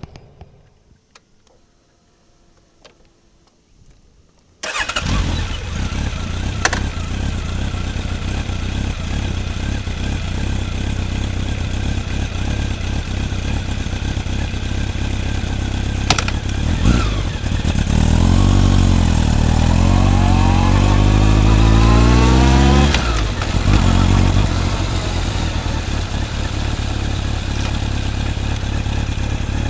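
Honda CB motorcycle engine with a titanium full exhaust system, fairly tame in tone, starting up suddenly about four and a half seconds in after a few faint clicks, then idling steadily. About two-thirds of the way through the throttle is opened and the revs climb for a few seconds before dropping back to idle.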